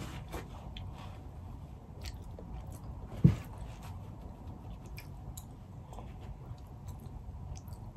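Mouth chewing soft seafood with scattered wet clicks and smacks. One short thump about three seconds in.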